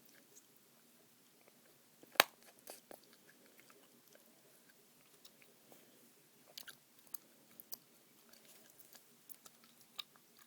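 Close-miked chewing gum being chewed with the mouth open: scattered wet clicks and smacks. About two seconds in comes one sharp, loud pop, a gum snap, followed by smaller clicks.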